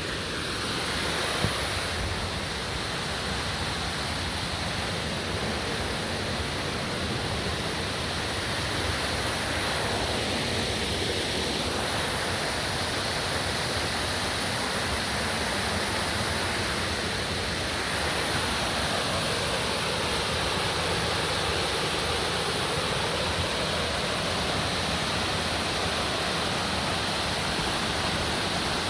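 Waterfall rushing steadily: water pouring and splashing in an unbroken roar.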